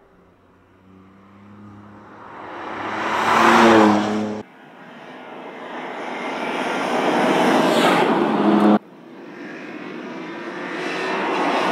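BMW M2 Competition's three-litre twin-turbo inline-six pulling hard as the car approaches, growing louder with its pitch rising. The sound cuts off abruptly about four seconds in and again near nine seconds, each time followed by another pass building up.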